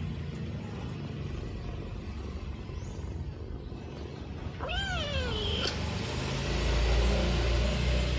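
A kitten gives one meow about a second long, halfway through; its pitch rises briefly, then falls. A low rumble comes in near the end.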